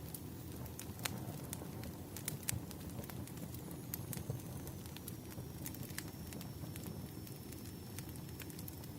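Bonfire ambience: a steady low rumble of burning with irregular sharp crackles and pops.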